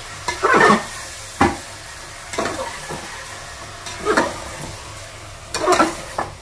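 Mutton and onions sizzling as they fry in an aluminium pressure cooker, with a metal spatula scraping and turning them in about five strokes.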